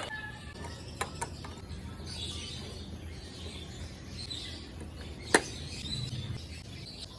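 A few sharp clicks or taps, the loudest about five seconds in, over a low steady hiss with faint high chirps.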